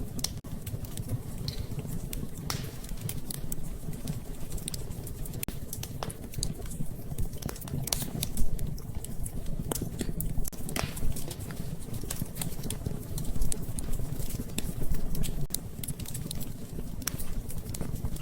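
Wood fire in a fireplace crackling, with irregular sharp pops and snaps over a low steady rumble, a few pops louder than the rest.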